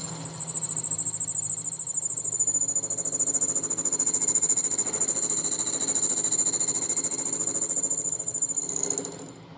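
A steady high-pitched squeal from a machine working metal, with a fast flutter in its loudness, stopping about nine seconds in.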